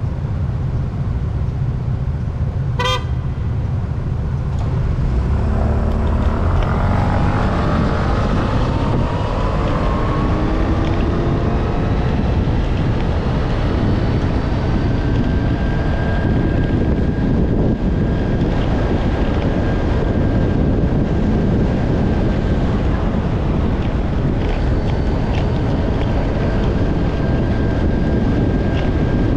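Riding through road traffic with heavy wind rumble on the microphone. A short horn beep sounds about three seconds in. Then a vehicle engine rises in pitch as it speeds up and settles into a steady whine.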